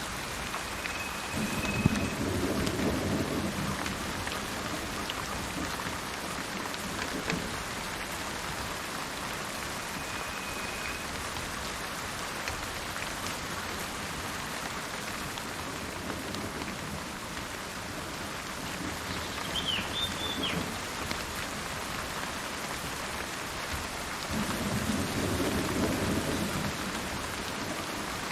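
Steady rain falling, with two low rolls of thunder, one a couple of seconds in and one about 25 seconds in. A bird gives a couple of short whistled notes and a brief chirp about 20 seconds in.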